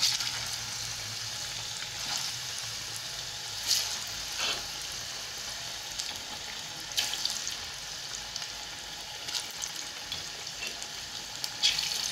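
Ripe plantain slices frying in hot vegetable oil in a small pan: a steady sizzling hiss with a few sharp pops and crackles, a freshly added batch.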